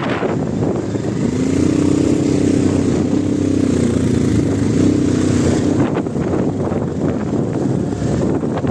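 Wind buffeting the microphone, with a motor vehicle's engine droning from about a second in until about six seconds in, its pitch wavering slightly.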